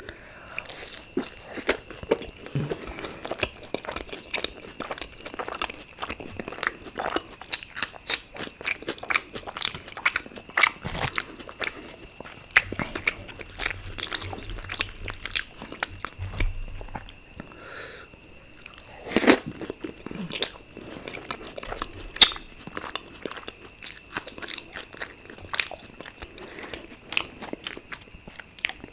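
Close-miked eating: a person biting and chewing luchi with potato curry, in a dense run of short wet mouth clicks and smacks. Two clearly louder ones come about two-thirds of the way through.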